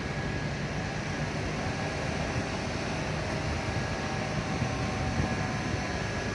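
A vehicle engine running steadily, with a faint steady whine over it.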